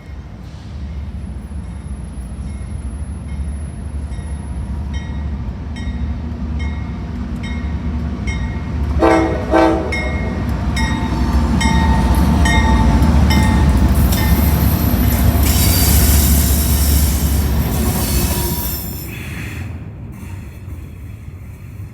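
CSX freight train passing: a steady low diesel rumble with wheels clicking over rail joints, two short horn blasts about nine seconds in, then wheels squealing as the train gets loudest in the second half before it fades near the end.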